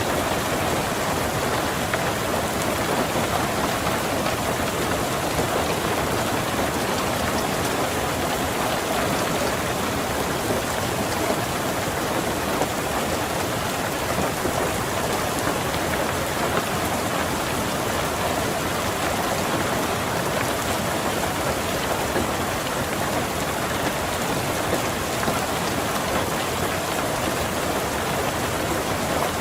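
Steady rain pattering on a car's roof and windows: a dense, even hiss of countless drops with no thunder.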